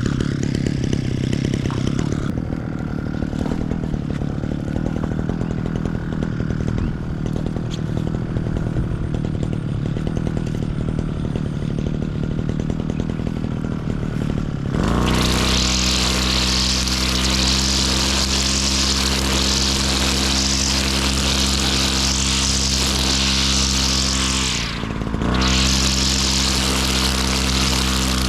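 Petrol brush cutter engine running at low throttle, then opened up to full throttle about halfway through and held at a steady high whine. Near the end the throttle is let off for a moment and then opened up again.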